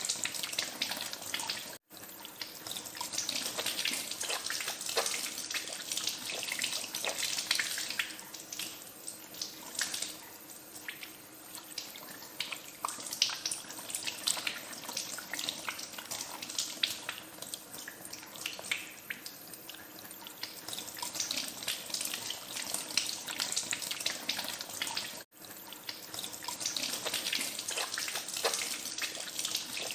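Water running from a tap into a sink, with irregular splashing as hands are washed under the stream. The sound drops out for a split second twice, about two seconds in and again near the end.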